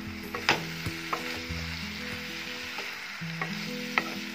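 Mustard greens and potato cubes sizzling in a non-stick kadai as a wooden spatula stirs them, with several sharp knocks of the spatula against the pan, the loudest about half a second in and another near the end.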